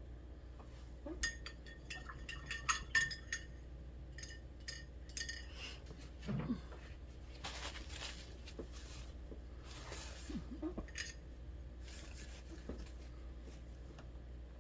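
Quick, light clinks of a paintbrush rattling against a glass water jar as it is rinsed, followed by a couple of soft swishes.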